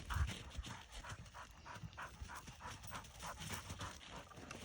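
A dog panting rapidly, about four breaths a second.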